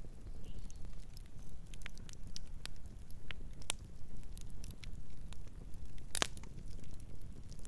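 Wood fire crackling: irregular sharp pops and snaps over a low steady rumble of burning, with a brief louder burst of crackles about six seconds in.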